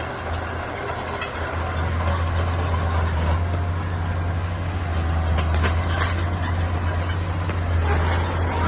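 Heavy diesel engine of a bulldozer running steadily with a deep hum, with scattered short metallic clanks and rattles over it.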